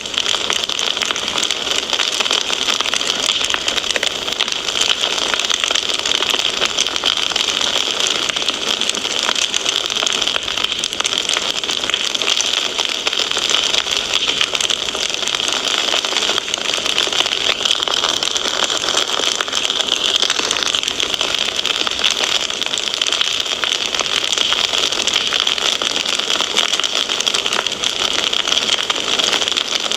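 Wood fire in a fireplace crackling: a dense, even stream of small snaps over a steady hiss.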